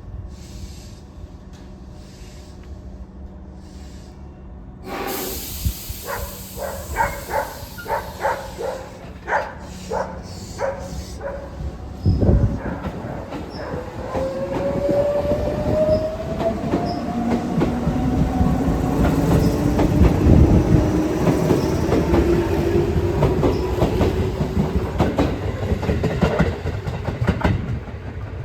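Tobu 8000 series electric train pulling out of the station: a sudden hiss of air about five seconds in, then the wheels clacking over rail joints. The traction motors give a whine that climbs steadily in pitch as the train accelerates away.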